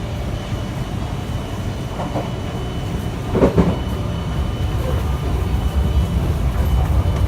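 Odakyu 70000-series GSE Romancecar running, heard inside the passenger cabin: a steady low rumble with a faint, steady high tone over it. A brief louder sound comes about three and a half seconds in.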